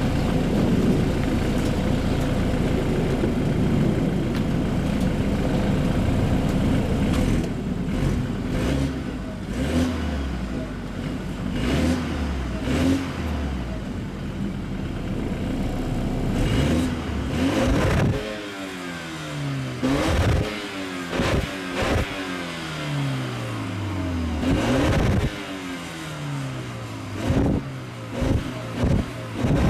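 2013 BMW 528i xDrive's turbocharged four-cylinder engine accelerating on the road. In the second half its pitch climbs and drops back again several times, and a few sharp knocks come near the end.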